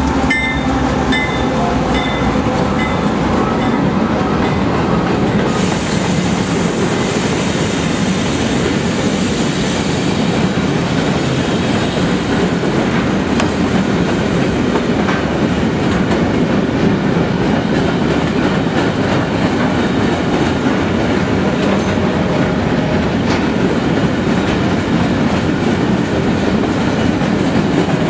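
CSX freight train rolling past at close range: a diesel locomotive goes by first, then a long string of empty bulkhead flatcars with steady wheel-on-rail rumble and clickety-clack, and now and then a faint wheel squeal. A bell dings repeatedly over the first few seconds.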